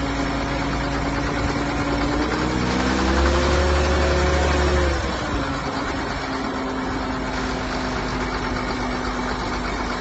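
A 2000 John Deere 7810 tractor's six-cylinder diesel engine idling after being started, briefly revved up about two and a half seconds in and settling back to idle about five seconds in.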